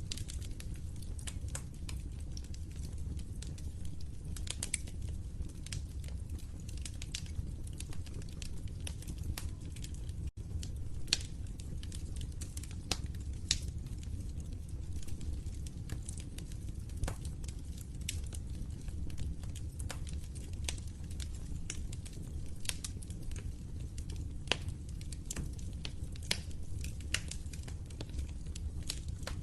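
Wood fire crackling in a fireplace: irregular sharp pops and snaps over a steady low rumble of the flames, with a momentary dropout about ten seconds in.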